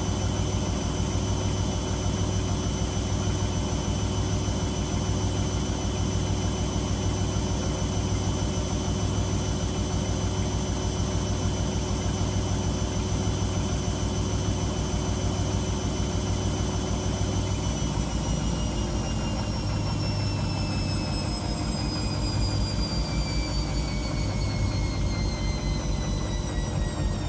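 Washing machine on a spin cycle: a steady low hum with a high motor whine. About two-thirds of the way through, the whine begins to fall steadily in pitch as the drum slows down.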